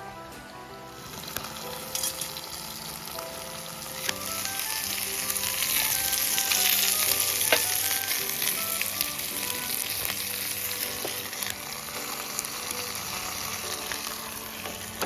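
Food sizzling over a campfire, a hiss that builds from about a second in and is loudest midway, with a few sharp pops, over background music with a simple melody.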